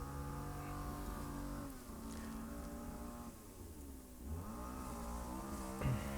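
A small petrol engine, most likely the neighbour's petrol strimmer, running steadily, its speed dropping and climbing back up about four seconds in. A short knock near the end.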